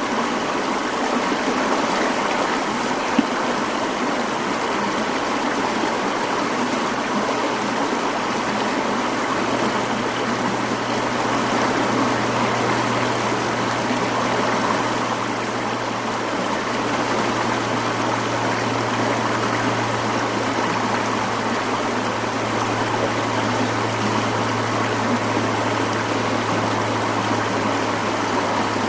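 Mountain stream (sawa) flowing, a steady, unbroken rush of water, with a low steady hum underneath that grows a little stronger about a third of the way in.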